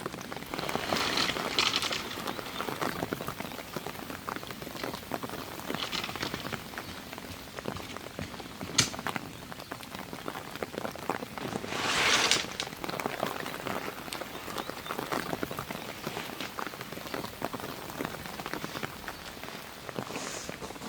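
Steady rain pattering, a dense run of small drop ticks, with a sharp tap about nine seconds in and a louder rush of noise about twelve seconds in.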